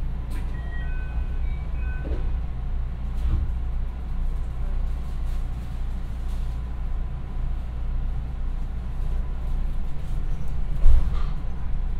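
A JR West 221 series electric train running: a steady low rumble, with a faint constant tone above it and one short thump near the end.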